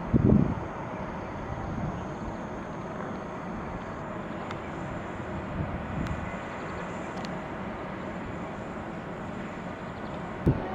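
Steady outdoor hum of vehicle traffic, with a short loud bump at the start and another near the end.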